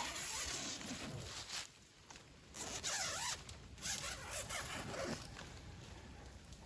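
A zipper being pulled in three rasping strokes, the last one ending about five seconds in.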